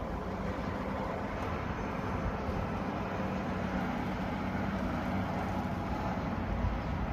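Steady low vehicle rumble with a hiss over it, even throughout with no distinct events.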